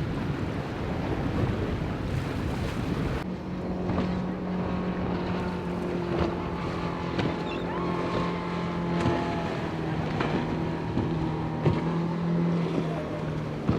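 Motorboat engine running with a steady low hum, over wind buffeting the microphone. The engine hum comes in about three seconds in, as the harsher wind noise drops away.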